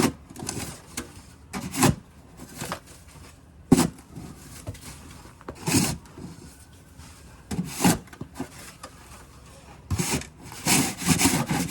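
Melnor snow shovel scraping snow off a hard surface in repeated strokes, about one every two seconds, with a quicker run of scrapes near the end.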